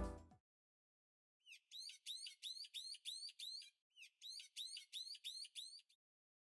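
Bird chirping: two quick runs of repeated high chirps, about four a second, with a short break between them.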